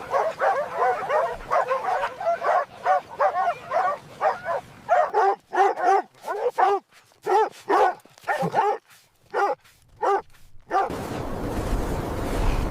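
Dogs barking and yipping excitedly: quick overlapping barks at first, thinning out to single barks about twice a second. The barks stop suddenly near the end, where a steady rushing noise takes over.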